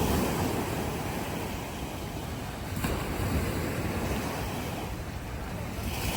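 Strong wind gusting against the microphone, with a low rumble that swells and eases, over a steady rushing of surf.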